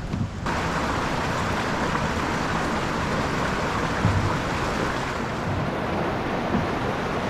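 Water rushing steadily through the culverts of a concrete low-head river crossing, a constant even roar that starts abruptly about half a second in.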